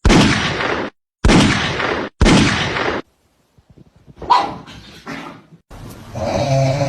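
A dog barking: three loud, harsh barks about a second apart, then quieter vocal sounds from the animal.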